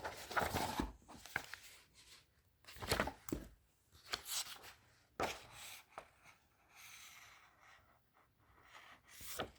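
Pages of a paper instruction manual being turned and handled, with irregular soft rustles and flicks, several seconds apart.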